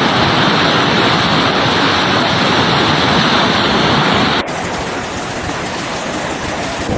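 Loud, steady rushing of water with no distinct pitch. About four and a half seconds in it cuts abruptly to a slightly quieter stretch of the same kind of rushing.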